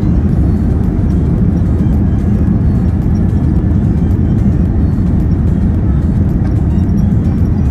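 Steady, loud, low cabin noise of a Boeing 787-9 airliner in its climb after takeoff: engine and airflow noise heard from inside the cabin.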